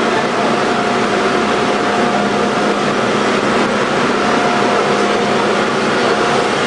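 Loud, steady noise of boiler-room machinery running: an even rush with a constant hum and a couple of steady higher tones.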